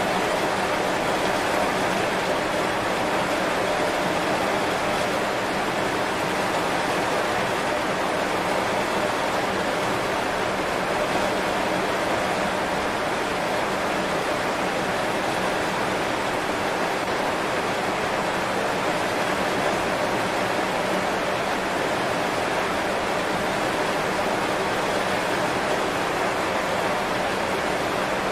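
Heavy rain falling steadily on banana leaves, an even, unbroken patter of drops.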